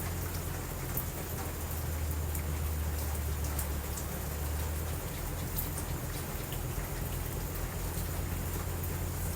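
Steady rain falling, with scattered sharp ticks of drops or crackles over a constant low rumble.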